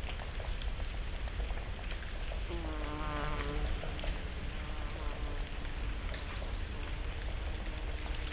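A flying insect buzzing past: a droning hum that comes in about two and a half seconds in, loudest for about a second, then fades and lingers. Light ticking of falling leaves landing on dry leaf litter throughout.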